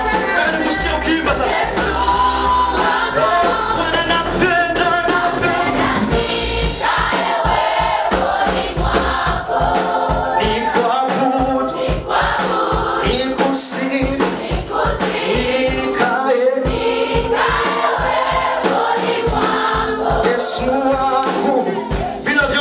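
Gospel choir singing a praise song to music, with a steady beat coming in about six seconds in.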